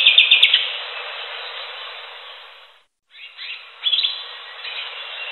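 Greater green leafbird (cucak hijau) song: a quick run of sharp chirping notes over a steady hiss, a brief drop-out to silence about three seconds in, then more chirps and short whistled notes.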